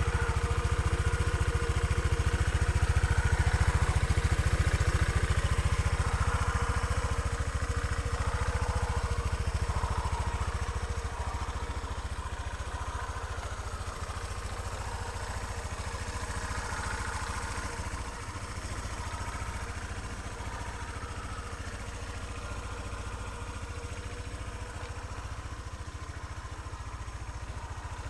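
Honda PCX125 scooter's single-cylinder eSP engine running steadily, louder for the first ten seconds or so and then quieter.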